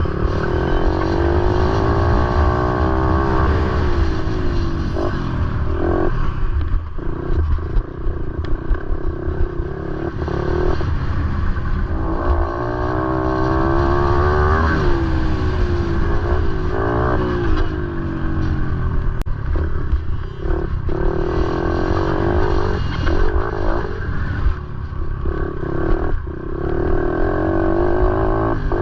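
Motorcycle engine running under load, its pitch repeatedly climbing and dropping as the throttle opens and closes, over a steady low rumble.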